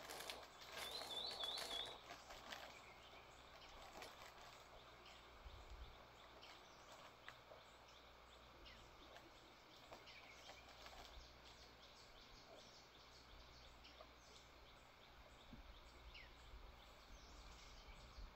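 Near silence: faint outdoor ambience with scattered short high chirps, and a brief louder rustle with a short warbling call about a second in.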